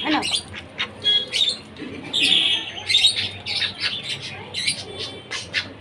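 Pet birds calling: a rapid run of many short, high calls, some longer and louder around two to three seconds in.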